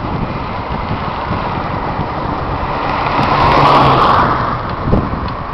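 Steady rush of wind and road noise while riding a bicycle along a road, swelling louder about three to four seconds in.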